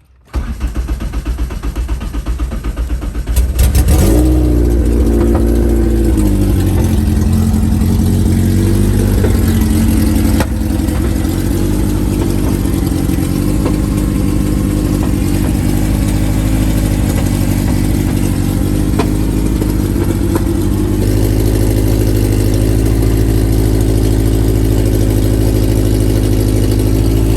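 Honda K24 inline-four engine in a DC2 Integra cranking on the starter for about three and a half seconds, then catching and starting, the revs falling over the next few seconds to a steady idle. This is its first start after a no-start fuel problem was fixed with redone fuel lines and an Aeromotive fuel pressure regulator.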